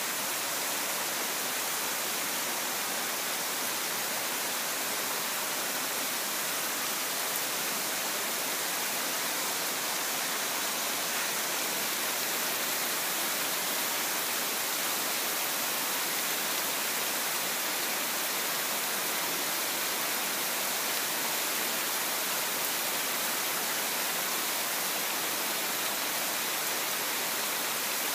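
Tropical rain falling steadily on garden shrubs, leaves and dry ground: a constant, even hiss.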